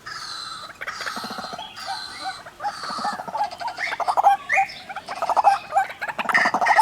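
A pair of white-breasted waterhens, male and female, calling together: fast, overlapping runs of repeated notes.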